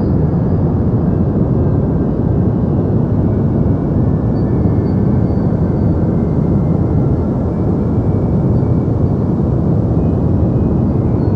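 Steady, unbroken deep noise, heaviest in the low range and thinning out toward the top, like a constant low rush or rumble.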